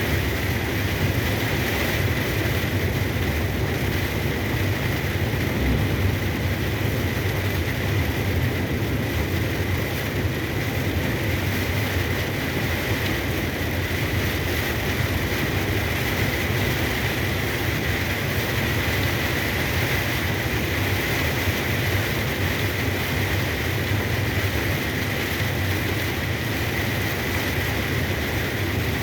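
A truck driving in heavy rain: a steady low engine drone with road and rain noise, and a constant high whine above it.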